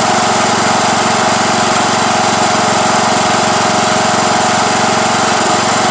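Craftsman YT3000 lawn tractor engine running steadily at an even speed.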